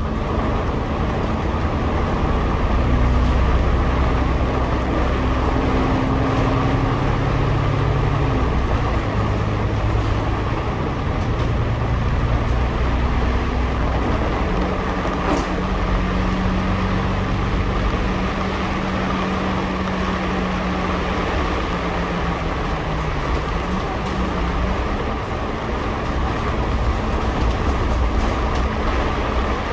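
Double-decker bus running, heard from the upper deck: a steady drone of engine, drivetrain and road noise, with engine tones that shift pitch several times as the bus changes speed.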